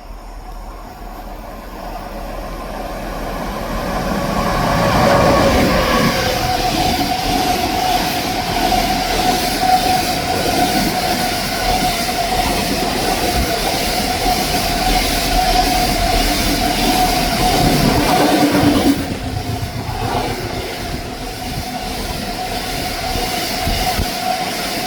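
Train approaching and running past on the rails, growing louder over the first five seconds, with a steady whine and a pitch that glides down as it comes close. The noise drops a step about nineteen seconds in while the whine carries on.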